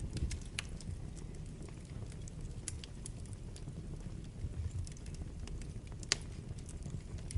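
Wood fire burning in a fireplace: a steady low rumble of flame with scattered crackles and sharp pops, the loudest pop about six seconds in.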